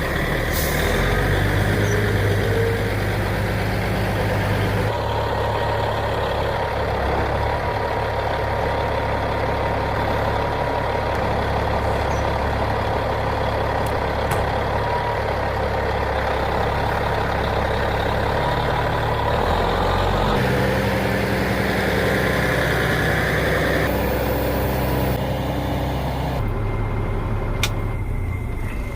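An engine running steadily with a hiss over it, changing abruptly a few times where the footage is cut.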